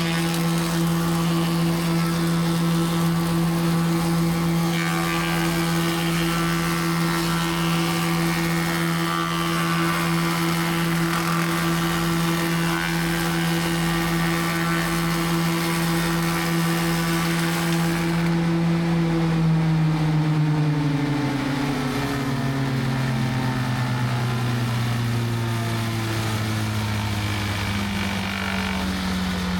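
Wood profiling machine with several cutter heads running at a steady hum, then about two-thirds of the way through its pitch slides steadily down as it winds down.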